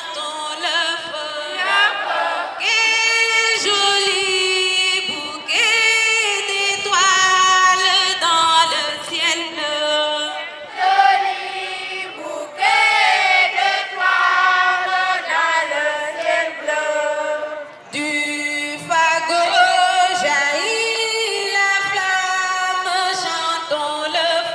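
A group of voices singing together, a choir-like chant sung in phrases.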